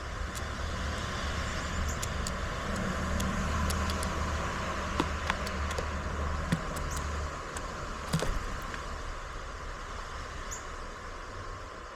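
Low engine rumble of a motor vehicle, steady and then dropping away about seven seconds in, over a steady hiss, with scattered sharp clicks and taps.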